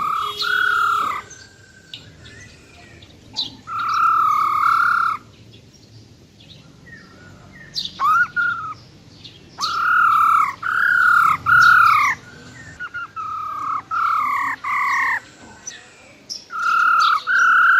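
Female black-throated laughingthrush calling its rolling 'ro ro' call. Clear, arched, fairly low notes come mostly in runs of two or three, with pauses of a second or more between runs. This is the call that excites male laughingthrushes into song.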